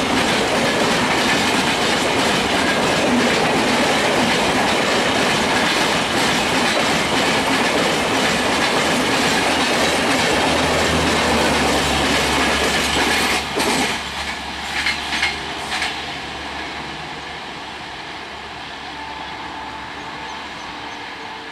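Indian Railways express train running fast over the track, a loud steady rush with the clickety-clack of its wheels on rail joints. About two-thirds of the way through the rush drops off sharply, with a few last clacks, then the train's sound fades away.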